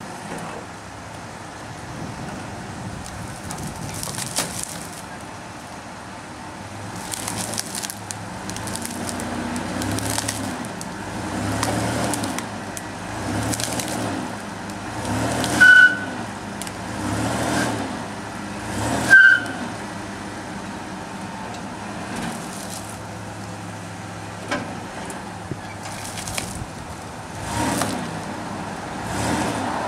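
Car or truck engine revving in repeated surges as it strains to pull a palm tree out of the ground, with two short, loud high squeals around the middle and scattered cracks and clicks.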